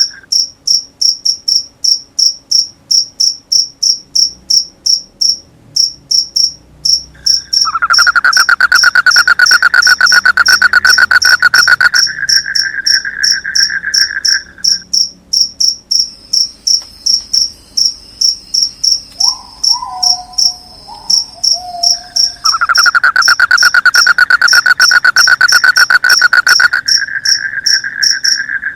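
Crickets chirping at night: a high chirp repeats in a fast, even pulse throughout. Twice a louder, lower pulsing trill joins in, each time lasting several seconds. A short lower call sounds about twenty seconds in.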